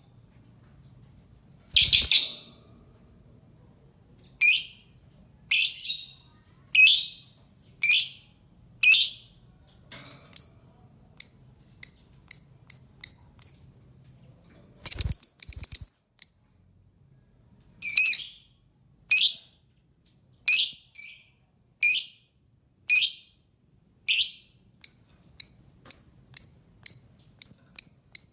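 Lovebird calls: shrill, sharp chirps about once a second, breaking into a quicker run of shorter chirps in the second half. A faint steady high tone runs under them.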